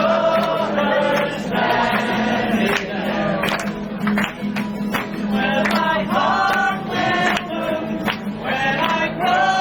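A group of restaurant waiters singing together, men's voices carrying held, sliding notes.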